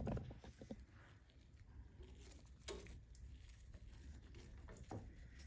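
Faint scattered knocks and clicks over a steady low hum, with one louder knock right at the start.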